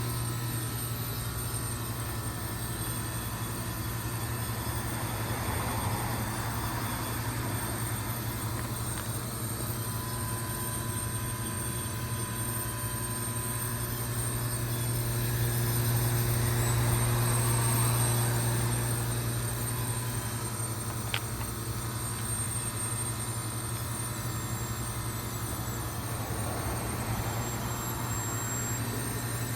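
York Olympian (Latitude 10) heat pump outdoor unit running in its defrost cycle: a steady low compressor hum, with a hiss that swells and fades three times about ten seconds apart, and a faint tick about two-thirds of the way through.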